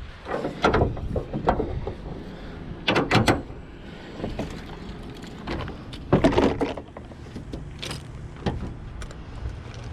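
Scattered clicks and clatters of hands and tools working on car trim around the windshield, with a low steady rumble underneath.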